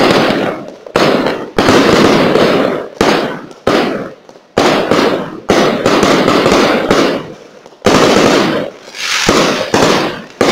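Aerial firework shells bursting in quick succession, about ten loud bangs at roughly one a second, each trailing off before the next.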